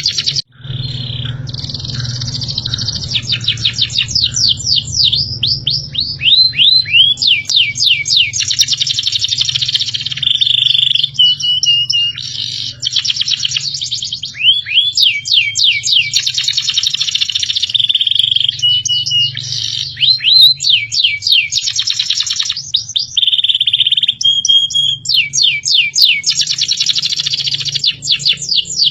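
Recorded small songbird song: fast runs of sweeping whistled notes alternating with short dry trills, the phrase repeating every five or six seconds, over a steady low hum. The sound drops out briefly just after the start.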